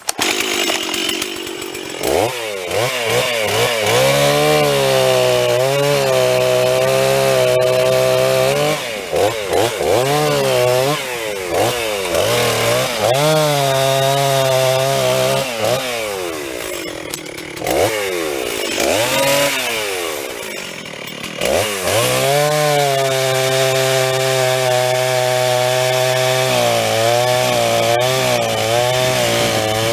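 Stihl chainsaw starting up and cutting uprooted storm-damaged trees: the engine revs up and down again and again, holding steady at high speed for several seconds at a stretch, and drops back toward idle briefly about two-thirds of the way through.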